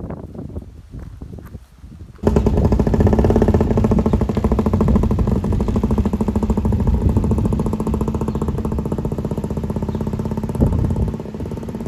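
After about two seconds of wind noise on the microphone, the Bond Mini Car's Villiers two-stroke engine cuts in loud, running with a rapid exhaust beat as the three-wheeler drives away. The sound eases slightly near the end.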